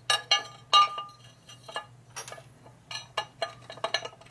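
Small metal engine parts and hand tools clinking and tapping together with short, ringing metallic strikes: two loud ones in the first second, then a quicker cluster about three seconds in.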